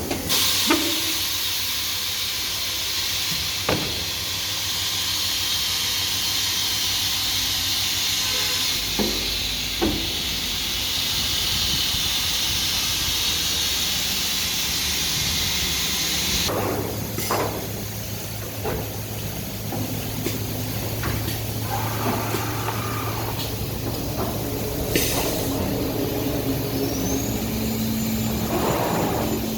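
CNC wood router machine running: a loud steady hiss for about the first half, then a lower machine hum with scattered knocks. Near the end a whine rises and then holds steady.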